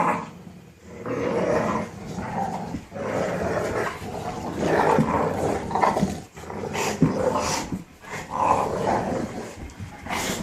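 Several puppies growling on and off in rough play, with a few short sharp yips.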